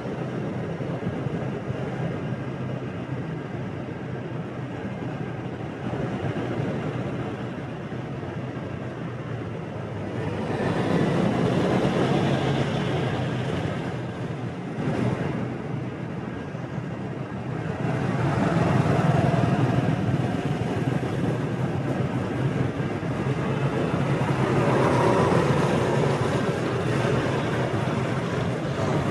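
Road traffic heard from a moving motorbike: a steady hum of engines and tyres that swells louder three times, around a third of the way in, about two-thirds in and near the end.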